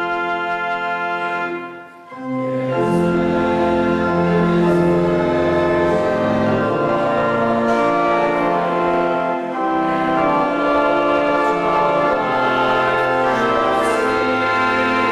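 Church organ playing a hymn: a held chord that breaks off about two seconds in, then the music goes on with changing chords.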